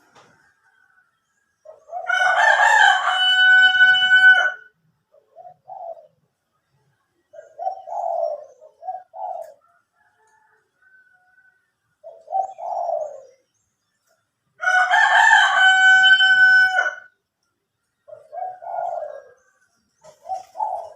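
A rooster crows twice, each crow about two and a half seconds long and the loudest sound. Between the crows, doves coo in short low phrases.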